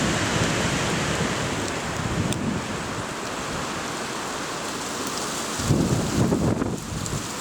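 Wind blowing through tree crowns: a steady rushing noise, with a stronger gust about six seconds in.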